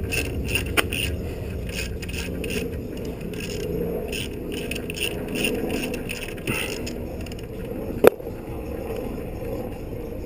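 Irregular scraping and clinking of metal tools and parts being handled, over a steady low rumble, with one sharp click about eight seconds in.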